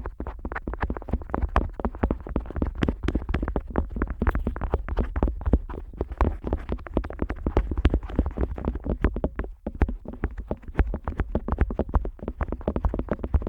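Otoscope tip rubbing, pressing and tapping on the rubber ear of a KU100 dummy-head microphone, recorded right at the ear. It makes rapid, dense crackling clicks and scrapes with deep thuds, with a brief pause about nine and a half seconds in.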